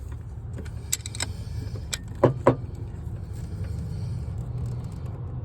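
A few sharp metal clinks and clanks from hand tools being handled during a starter repair, over a steady low hum.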